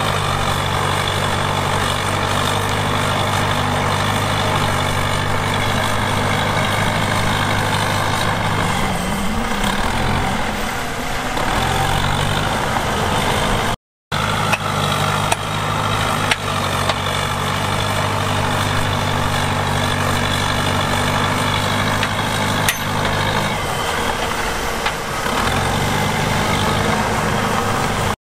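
Heavy earthmoving machine's diesel engine running steadily, its note sagging and recovering twice as it takes load. A few short knocks sound just after a brief break in the sound.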